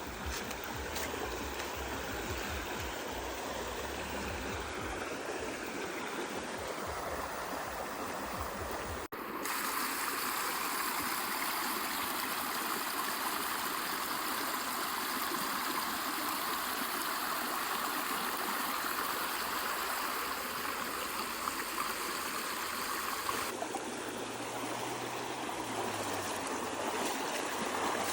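Flowing water of a stream, a steady rushing and gurgling. Its character changes abruptly twice, about nine seconds in and again near the end.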